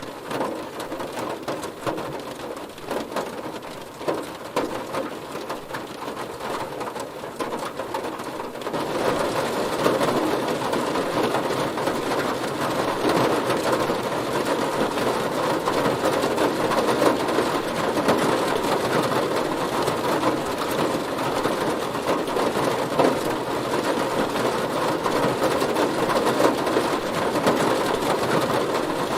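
Heavy rain falling on a car, a dense steady patter of drops on the bodywork that turns heavier and louder about nine seconds in.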